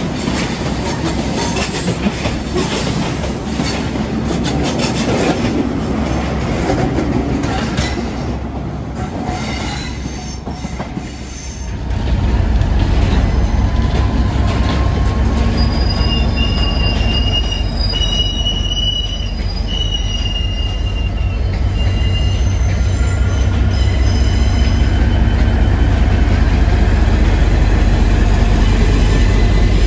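A passenger train's coaches rolling past along the platform with wheels clattering, then, about 12 seconds in, a Class 56 diesel locomotive passing at close range with its Ruston-Paxman V16 engine rumbling steadily. The hopper wagons behind it squeal on the curved track in high tones that come and go.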